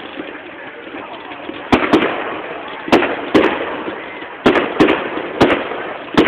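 Firework display: a run of about eight sharp bangs from shells bursting, starting nearly two seconds in, in quick pairs and singles, each trailing off into a rumbling tail.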